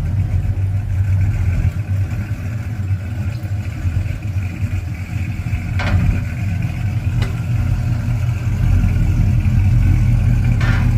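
A pickup truck's engine running through a loud, freshly welded aftermarket exhaust: a steady deep rumble that gets a little louder about eight and a half seconds in, with a couple of short clicks.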